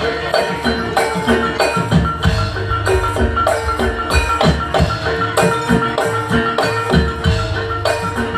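Javanese jaranan gamelan music: metal keyed instruments and drums struck in a steady, quick beat, with a couple of notes held underneath.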